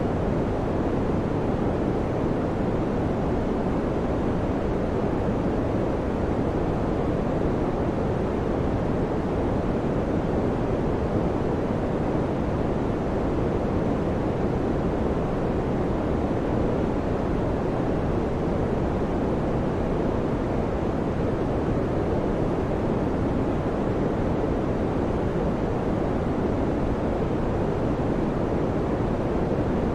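Electric fan running steadily: an even, unchanging whoosh of air, strongest in the low-middle range.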